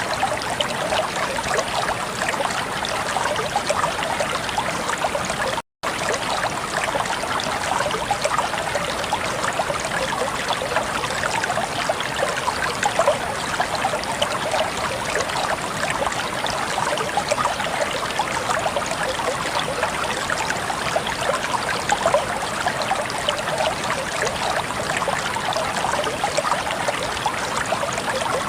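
Water flowing steadily in a stream, with a bright, constant splashing and trickling. A brief gap of silence breaks it about six seconds in.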